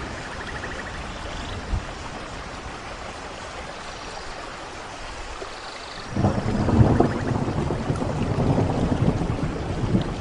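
Steady rain, joined about six seconds in by a rolling rumble of thunder that makes it suddenly louder.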